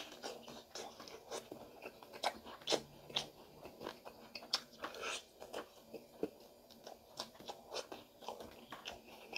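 Crunching and chewing of crispy fried pig tail, with irregular crisp crunches a few times a second.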